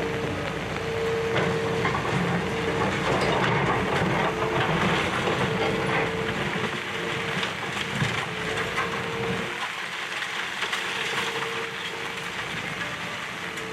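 Demolition excavator tearing down a building: crunching and clattering debris over the machine's running engine, with a steady tone that comes and goes. The low rumble drops away about nine and a half seconds in.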